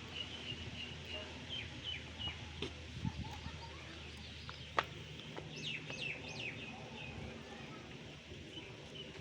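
Birds chirping: a scatter of short high chirps, with a cluster of quick falling calls around the middle. A single sharp click about five seconds in stands out above them.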